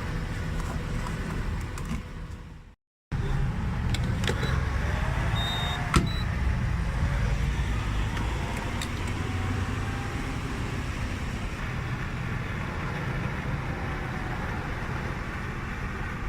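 2015 Subaru STI's turbocharged flat-four running steadily through an exhaust with the mufflers removed. The sound cuts out briefly about three seconds in, and there is a sharp click about six seconds in.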